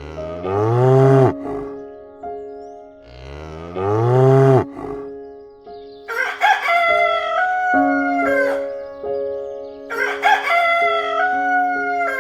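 A rooster crowing twice in the second half, each crow a long multi-part call, over steady background music. Earlier come two shorter, lower-pitched animal calls.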